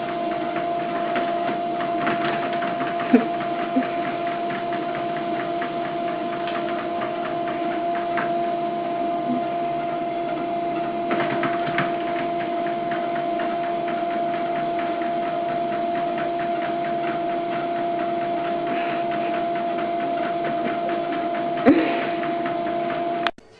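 A steady electric machine hum with two held tones, running without change, with a few light knocks and ticks and a sharper click about three seconds in and again near the end.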